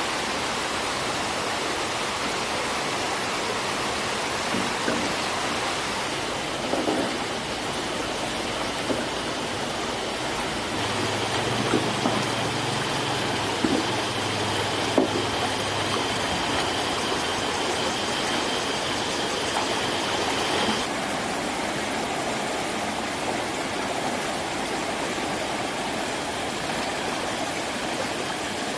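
Small river flowing, a steady rushing of water, with a few short knocks scattered through it. A low hum and a high steady tone join for about ten seconds in the middle.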